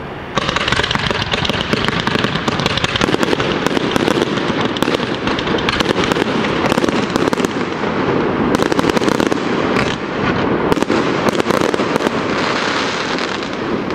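Fireworks display: a ground fountain and aerial shells go off together, starting abruptly about half a second in and building into a dense, continuous crackling of many bursting stars that eases off near the end.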